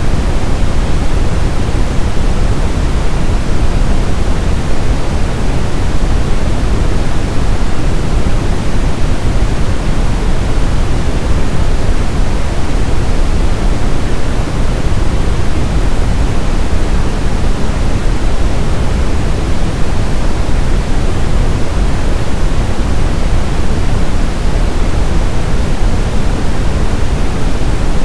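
Steady synthetic brown noise: a constant deep rushing hiss, strongest in the low end, with no changes.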